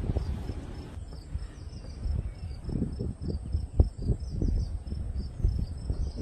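Crickets chirping in a rapid, regular pulse, over irregular low knocks and thumps, the sharpest about four seconds in.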